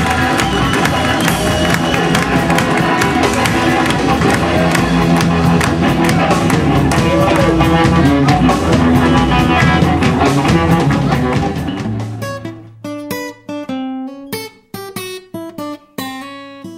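Live blues band playing, with guitar and drum kit together. About twelve seconds in the full band drops away, leaving a guitar playing single picked notes with short gaps between them.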